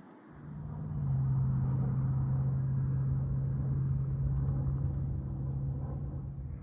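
A car running, with a low rumble and a steady hum that rise in over the first second and then hold steady.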